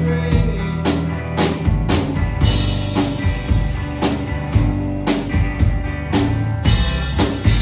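Rock band playing: a drum kit keeping a steady beat with kick and snare hits under guitar and bass.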